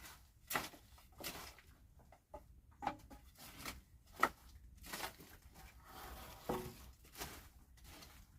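Irregular soft knocks, scrapes and rustles, one every half second to a second, with a sharper knock a little past halfway: hands working with materials at a campsite.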